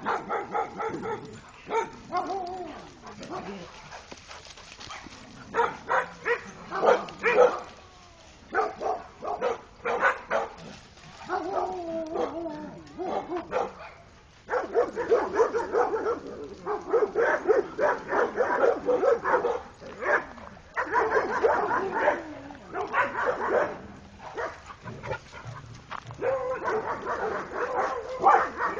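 Several dogs barking in irregular bursts, with some higher whining calls mixed in; the barking is densest and most rapid through the middle stretch, then eases toward the end.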